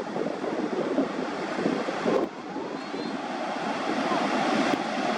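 Steady rushing wind and surf on a beach, slowly swelling in level, with a few faint short chirps.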